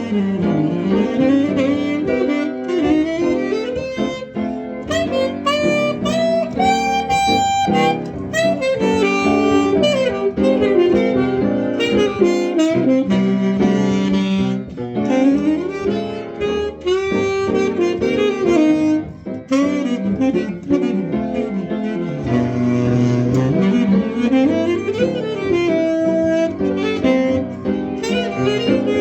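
Saxophone playing a jazz tune at a practice, its melody lines running over a moving bass line, with sharp percussive hits scattered through.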